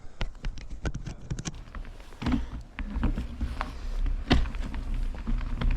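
Clicks and knocks of a bicycle being mounted and pushed off, then from about two seconds in a steady low rumble as the bike starts rolling, with scattered clicks over it.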